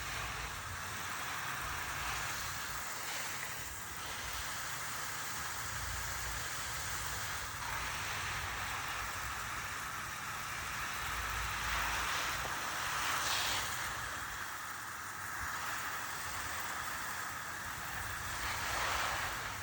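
Garden hose spray hissing steadily as it falls on plants and leaves, swelling in brief surges a few times.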